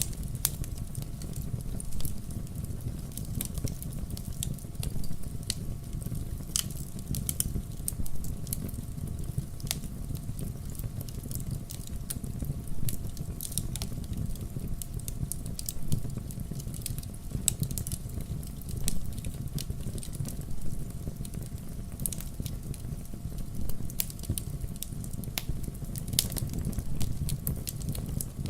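Wood fire in a fireplace crackling, with frequent irregular sharp pops over a steady low rumble of flames.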